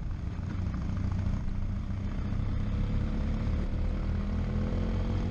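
Motorcycle running on a climbing mountain road, recorded from the bike: a heavy, steady low rumble with an engine tone that slowly rises in pitch over the second half.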